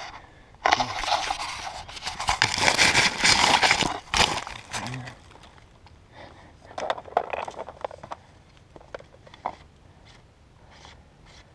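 Dry brush and twigs crackling and rustling as a hidden geocache container is pulled out by hand, loudest in the first few seconds, then lighter scraping and clicks of handling.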